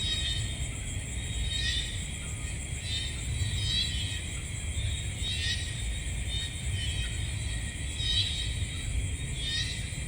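Night-time insect chorus: a steady high ringing, with a short chirping call repeating about every second or so over a low rumble.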